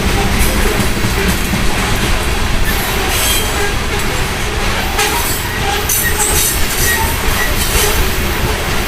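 Loaded coal hopper cars rolling past: a steady low rumble of wheels on rail, with short high-pitched wheel squeals about three seconds in and again between about five and seven seconds.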